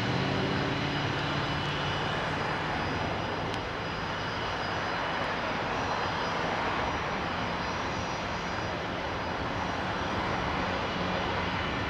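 Three Pratt & Whitney JT8D turbofans of a Boeing 727-200F freighter running steadily at low thrust, a jet hiss with a few steady whining tones, before takeoff power is set.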